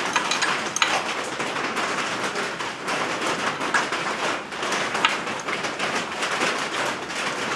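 Rain hitting the garage roof, heard from inside as a steady patter with scattered light ticks.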